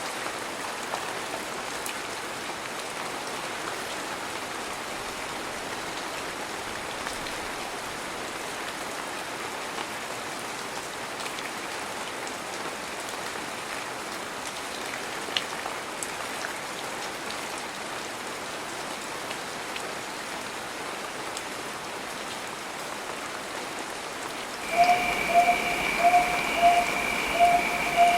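Heavy rain falling steadily, an even hiss with occasional sharp drip ticks. Near the end, a steady high tone begins, with a lower note pulsing over it about twice a second.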